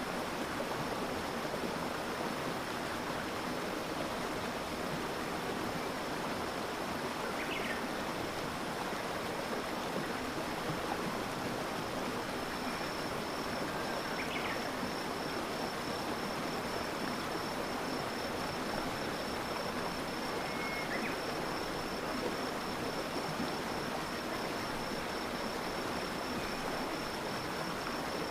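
Stream water flowing steadily, with a continuous even rush. Over it runs a steady high-pitched trill that becomes pulsing about halfway through, and a few brief chirps come at intervals.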